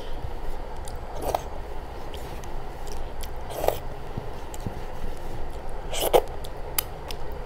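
Close-up eating sounds of a person eating rice by hand: chewing and mouth noises, with three short, louder smacks about a second in, past three and a half seconds, and around six seconds, the last and loudest as a handful goes into the mouth.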